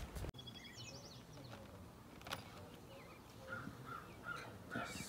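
Faint birds chirping outdoors: a quick run of high twittering notes in the first second, then softer, evenly repeated chirps near the end, over a quiet steady background hush.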